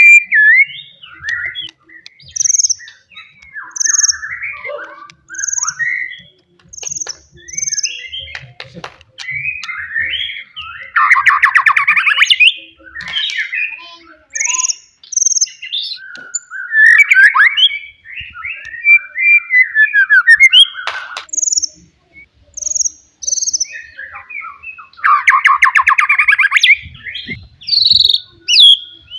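Wild white-rumped shama singing a loud, varied song: short high whistled notes and quick phrases, broken by harsh rasping passages several times.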